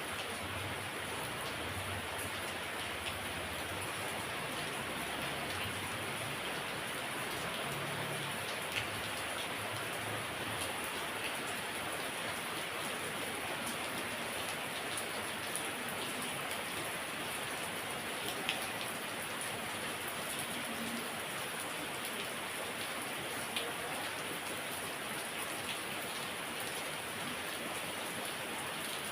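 Heavy rain falling steadily, a dense even patter, with a few louder single drops standing out here and there.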